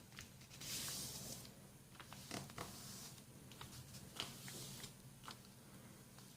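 A sheet of printer paper being folded and creased by hand: a brushing swish about a second in and another near four seconds, with light taps and crinkles between, over a faint steady hum.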